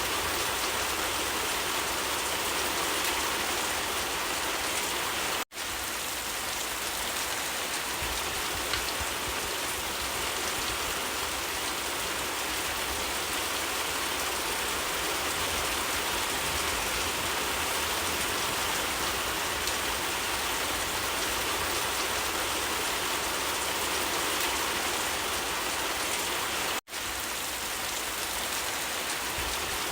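Steady rain falling, a dense even hiss of drops on surfaces. It cuts out for an instant twice, about five seconds in and again near the end.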